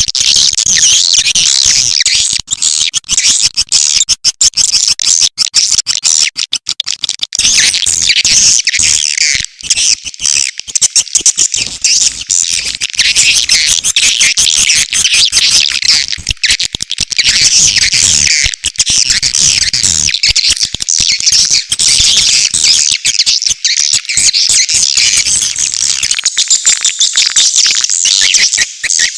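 Recorded swiftlet calls: a dense, unbroken chorus of high, rapid chirps and twitters, the kind of call track played to lure edible-nest swiftlets into a swiftlet house.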